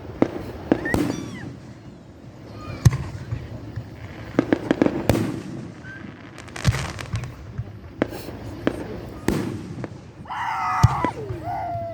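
Fireworks going off: a string of sharp bangs at irregular intervals, some louder than others, with several in quick succession around the middle.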